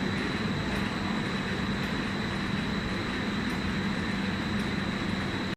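Flat glass tempering furnace line running: a steady industrial machine noise with a low hum and a thin, constant high whine, which stops abruptly at the end.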